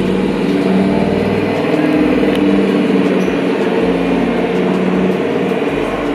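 Road traffic: car engines running steadily.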